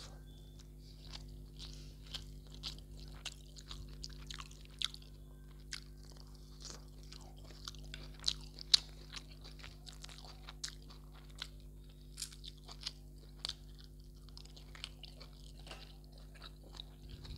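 Close-miked chewing of mutton curry and rice eaten by hand, with wet mouth clicks and smacks coming irregularly. A steady low hum runs underneath.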